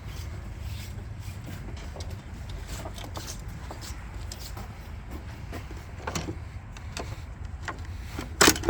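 Scattered metal clicks and clinks of a socket extension and spark plug socket being worked in the spark plug well, with a couple of sharper knocks, the loudest near the end, over a steady low rumble.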